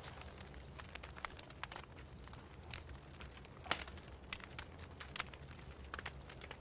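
Wood fire crackling in a fireplace: irregular sharp pops and snaps over a low steady rumble, the loudest pop a little past the middle.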